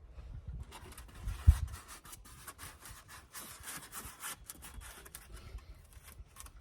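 Rubbing and scraping of foam insulation board being handled and fitted, with one sharp low thump about a second and a half in.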